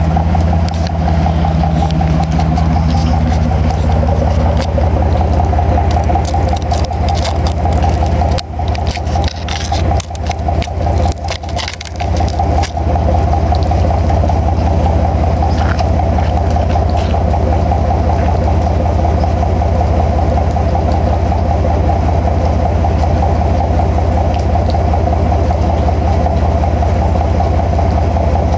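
Chevrolet S-10 pickup's engine running steadily through a 2½-inch straight-pipe exhaust, a loud, low drone. Between about 8 and 13 seconds in, the sound dips and breaks up unevenly before steadying again.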